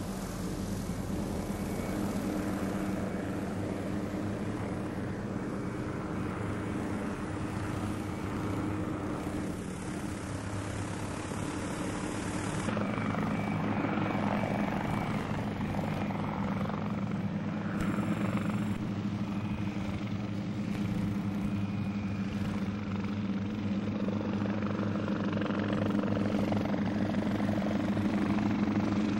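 Hughes 300 light helicopter in flight, its piston engine and rotor making a steady drone. About thirteen seconds in the sound changes abruptly: the high hiss drops away and the low drone grows stronger.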